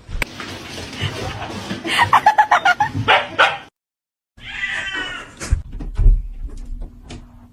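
A pet animal yipping in a quick run of short, sharp calls, then after a brief cut a higher, wavering call with a few clicks.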